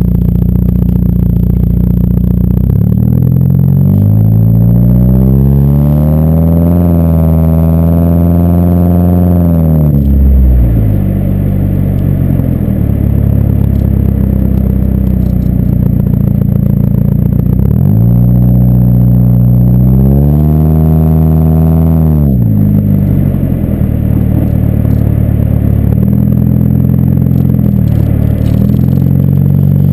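2007 Ford Focus four-cylinder engine through its BWR exhaust, heard while driving: a steady drone, then the pitch climbs under acceleration and drops off sharply, twice, with steady cruising between.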